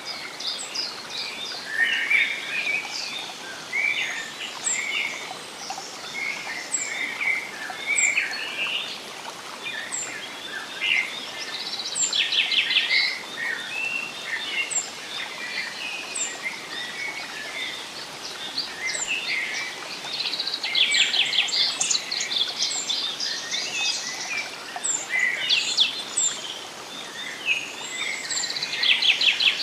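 Several wild birds calling and singing at once: a high, short chirp repeating about once a second, with rapid buzzy trills and warbling phrases coming and going. A steady soft hiss runs underneath.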